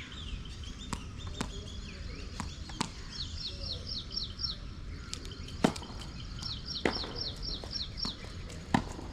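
Sharp knocks of tennis balls being struck and bouncing, the loudest three in the second half. A bird calls twice in quick runs of short descending chirps.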